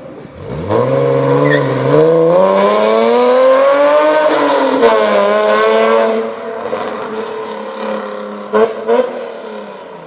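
BMW E46 coupe's straight-six on straight pipes, with a header and no catalytic converter, accelerating hard. The pitch climbs for several seconds with a brief dip partway, then the throttle comes off about six seconds in to a quieter drone, with two short loud blips near the end.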